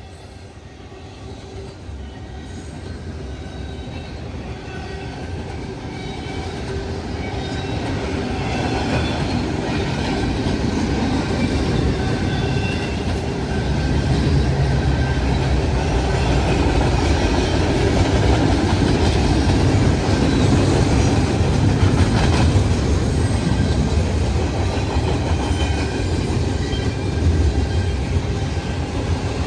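Long freight train rolling past, mostly intermodal cars: a steady rumble of wheels on rail with clicking joints and a faint squeal from the wheels. The noise grows over the first dozen seconds and then holds.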